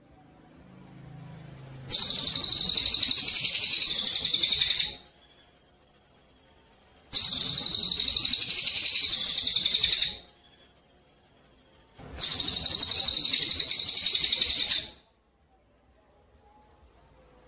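A songbird's rapid high-pitched trill, given three times in bursts of about three seconds with pauses of about two seconds between them, played as a masteran song-tutor recording.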